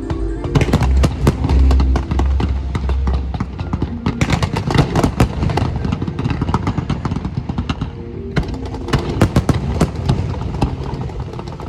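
Fireworks going off in rapid, dense volleys of bangs and crackles, with music playing underneath.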